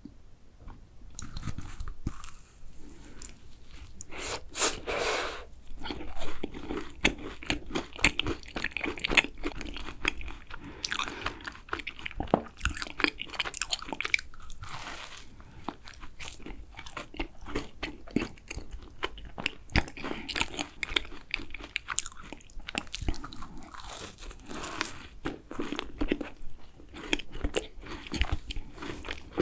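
Close-miked eating of macarons: repeated crisp, crunchy bites and chewing, with short crackly bursts scattered through.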